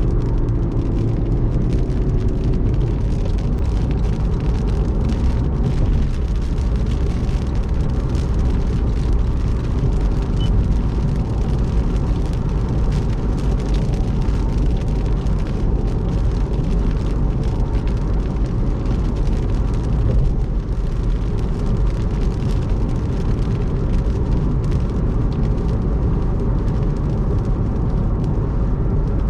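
Car driving at speed on a rain-soaked road: a steady deep rumble of road and tyre noise with an even hiss over it.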